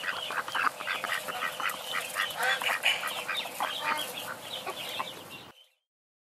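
A brood of ducklings peeping and calling over one another in many short, quick calls, stopping abruptly about five and a half seconds in.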